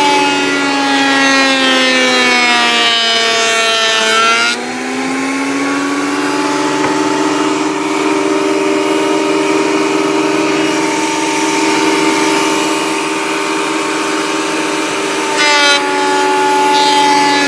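Craftsman thickness planer cutting a board, with a shop vacuum running on its chip outlet. The motor's whine drops in pitch over the first few seconds as the board loads the blades, holds steady at the lower pitch while it cuts, and rises again about fifteen seconds in as the board clears.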